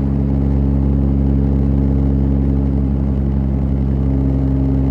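Cummins turbo-diesel in a Dodge Ram pickup, fitted with 250% injectors, droning steadily at a constant speed under way, heard from inside the cab. It is loud, with a deep, even pitch that does not rise or fall.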